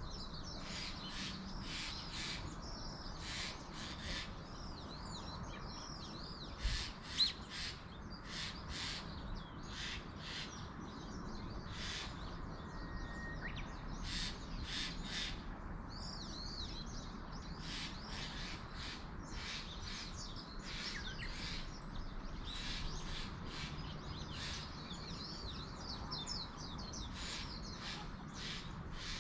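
Wild birds calling over and over in mountain woodland, short chirping notes, some sliding in pitch, over a steady background hiss. Two brief low thumps about seven seconds in.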